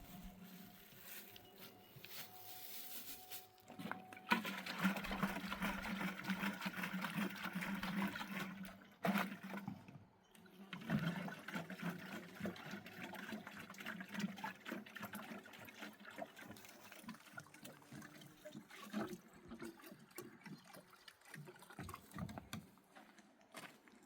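Water pouring and splashing, starting about four seconds in and strongest for the next several seconds, then carrying on more unevenly with small knocks.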